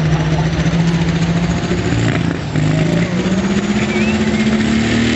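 Dodge diesel pickup's engine running hard under load while pulling the sled, its pitch climbing steadily, with a brief dip about two and a half seconds in.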